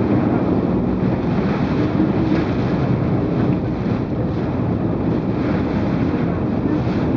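Typhoon wind blowing hard against the microphone: a loud, steady rush of noise.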